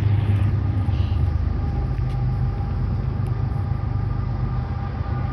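A freight train rolling past: a steady low rumble with a strong hum that eases a little after about a second.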